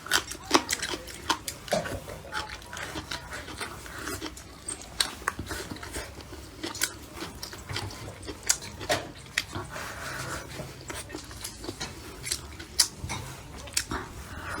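A person eating close to the microphone: irregular crisp clicks and crunches of chewing.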